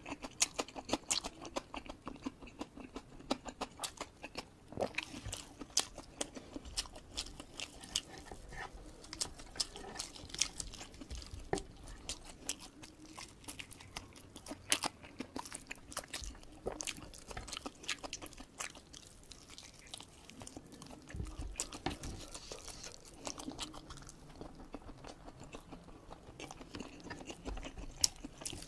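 Close-miked closed-mouth chewing of village chicken and rice eaten by hand, full of small crisp clicks and crackles, with a few soft low thuds.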